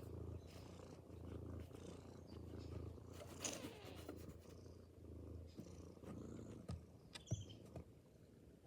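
Cat purring softly, a low rumble in repeated pulses about a second long that weakens after about five seconds, with a few light clicks and rustles.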